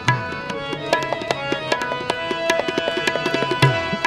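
Instrumental break in a devotional shabad: tabla playing a quick run of sharp strokes, the bass drum's pitch sliding down about a second before the end, over steady held accompanying notes.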